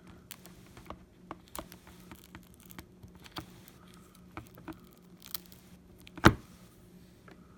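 Opening tools working under the glass of a first-generation iPad mini, loosening its adhesive: a scatter of small clicks and scrapes, with one sharp, much louder click about six seconds in.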